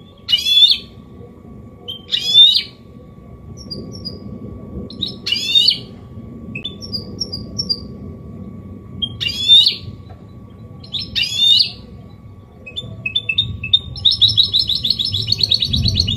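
Goldfinch mule, a goldfinch–canary hybrid, singing in the copia Málaga style: several loud, short sweeping notes with small twitters between them, then a fast continuous twittering trill near the end.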